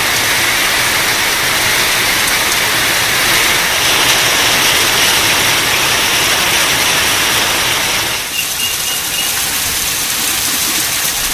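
Heavy rain pouring down, a steady dense hiss of rainfall on wet ground, the pour changing a little about eight seconds in.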